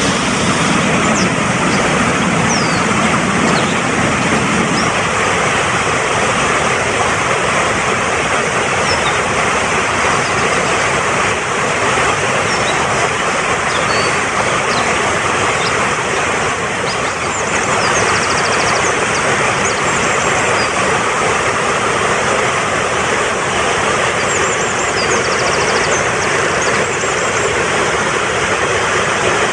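Fast-flowing mountain stream rushing steadily. Small birds chirp high above the water now and then, with a quick trill of notes a little past halfway and again near the end.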